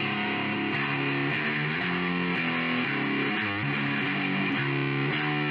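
Outro music: distorted electric guitar playing a steady riff of repeated chords.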